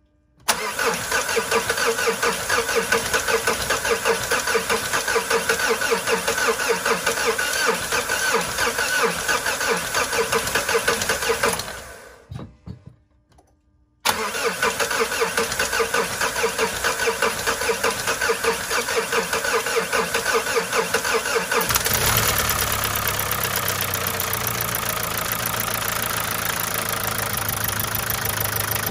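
Mazda CX-5's diesel engine being cranked by the starter in two long spells with a pause between, catching about three-quarters of the way through and settling into a steady idle. This is its first start after the cylinder head and injectors were reassembled.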